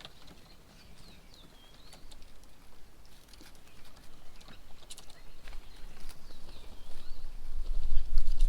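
Garden birds calling with short chirps and whistles, with scattered sharp taps and clicks. From about halfway a low rumble builds and becomes the loudest sound near the end.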